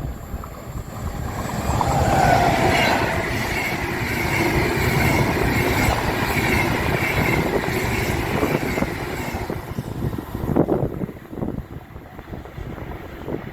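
An electric train passing by, rising to loud about two seconds in with a steady whine over the rumble of the wheels on the rails, then fading away after about nine seconds. Wind gusts buffet the microphone near the end.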